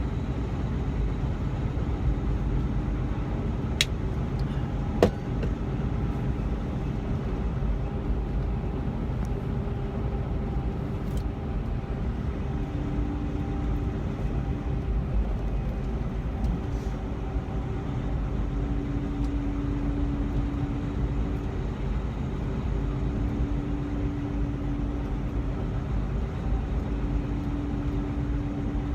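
Steady drone of a semi truck driving at road speed, engine and tyre noise heard inside the cab, with two sharp clicks about four and five seconds in.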